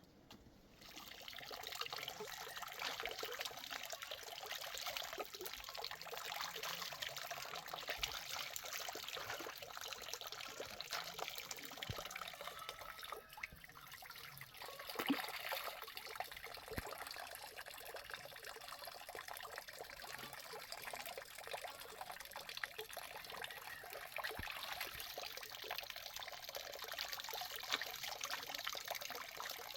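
Water running or trickling steadily, with a fine crackly texture throughout.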